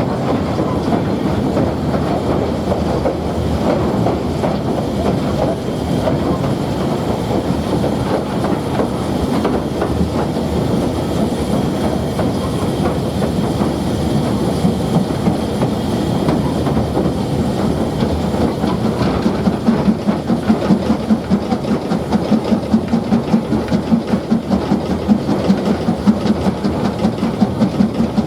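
Train running on the line: a steady rumble and rail noise, with a regular pulsing beat a few times a second setting in about two-thirds of the way through.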